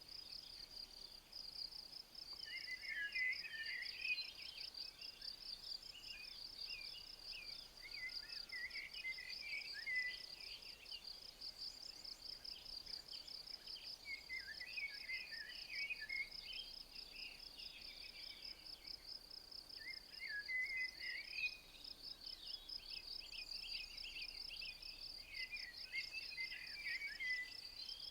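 Insects chirping in a continuous, fast-pulsing high trill. Over it a songbird sings short warbled phrases, five times about every five to six seconds.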